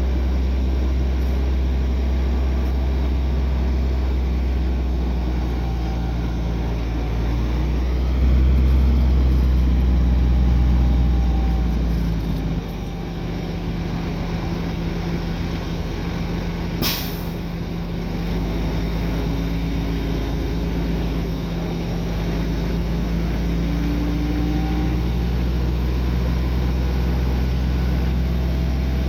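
Heavy diesel earthmoving machinery running steadily, louder for a few seconds about a third of the way in, with one short sharp hiss a little past halfway.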